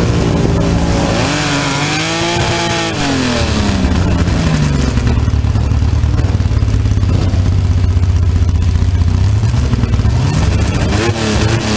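Fuel-injected Holden 202 straight-six of a slingshot dragster revved up and back down about two seconds in, then held at a steady idle, with quick throttle blips again near the end.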